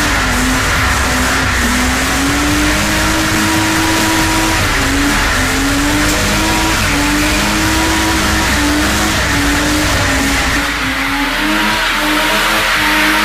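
Drift car's engine revving hard, its pitch repeatedly climbing and dropping as the throttle is worked, over continuous tyre squeal and hiss from the sliding tyres.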